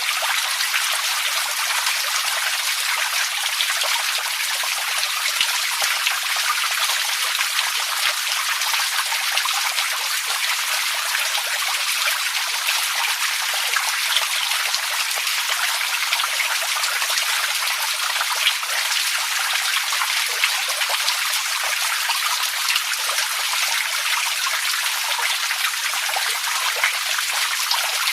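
Steady, continuous sound of running and splashing water, a dense patter of small drips and trickles that stays even throughout.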